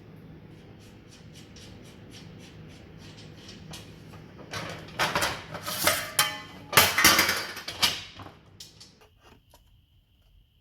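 Sheet-steel panel being worked with hand tools. First come a string of light metallic taps, then a few seconds of loud, dense clattering around the middle that trails off. A faint steady high tone begins near the end.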